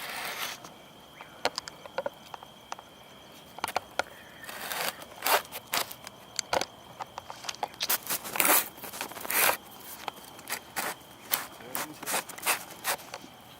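Campfire crackling: irregular sharp snaps and pops, with a few longer rustling bursts, over a faint steady high whine.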